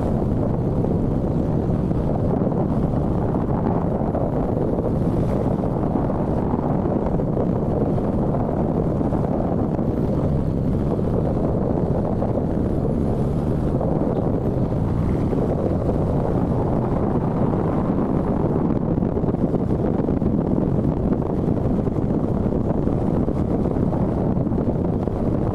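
Steady wind rush on the microphone of a moving motorcycle, an even, loud noise with no breaks.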